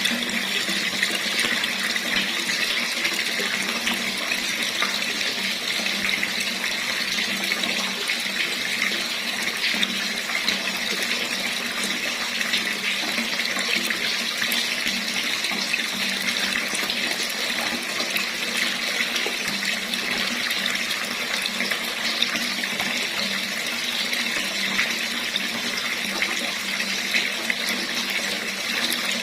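Water running steadily from a tap, a continuous splashing flow.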